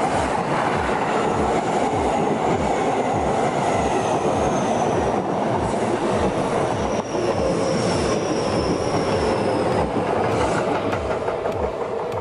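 Keio 8000-series electric commuter train passing close by at speed, its wheels clacking in a steady rhythm over the rail joints, with a faint high whine slowly falling in pitch.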